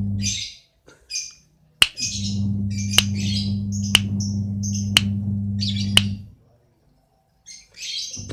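Lovebird chirping in quick bursts of high, chattering notes. Under it runs a steady low hum that cuts out twice, with sharp ticks about once a second.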